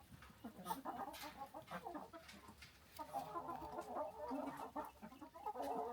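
A flock of chickens clucking and chattering while they eat scraps, with short overlapping calls that grow louder and busier in the second half.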